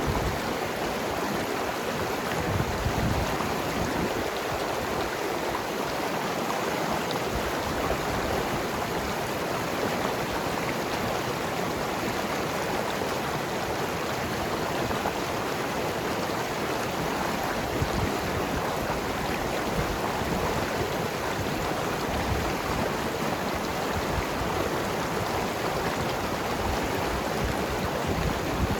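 Mountain river flowing and gurgling over rocks: a steady, even rush of water.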